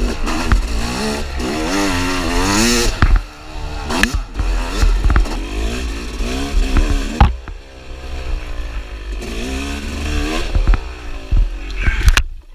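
Dirt bike engine revving up and down while riding, its pitch rising and falling again and again over a heavy low rumble, with scattered sharp knocks and clatter.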